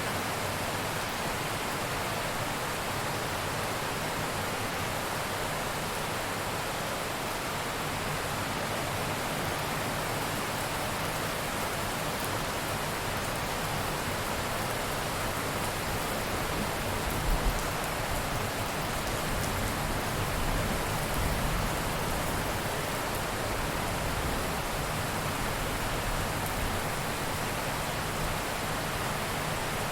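Steady heavy rain, an even rushing hiss with no let-up. Low thunder rumbles about halfway through, with two short louder peaks, then rumbles again a few seconds later.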